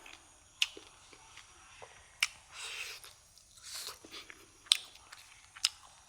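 A person biting and chewing food close to the microphone: four sharp crunching clicks, with soft bursts of chewing noise between them.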